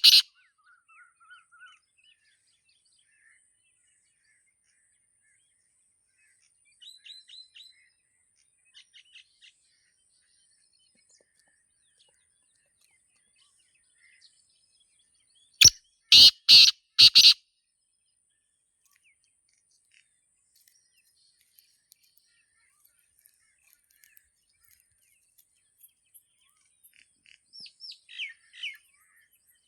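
Black francolin calling: a loud call of four quick notes in a row about halfway through, with the last notes of a previous call at the very start. Fainter chirps of other small birds come in between and near the end, over a faint steady high-pitched hiss.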